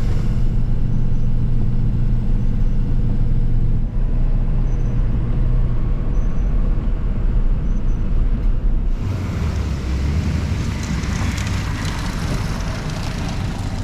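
Truck engine and road noise heard from inside the cab while driving, steady and loud. About nine seconds in, the low engine note shifts and a louder hissing rush comes up.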